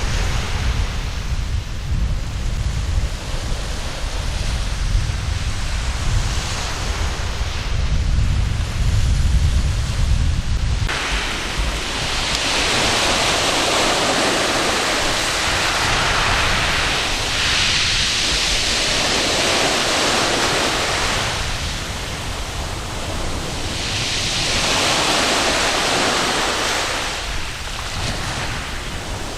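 Waves breaking and washing up a sandy beach, with wind rumbling on the microphone. The wind rumble stops abruptly about a third of the way in. After that the surf swells and fades in a wash every five or six seconds.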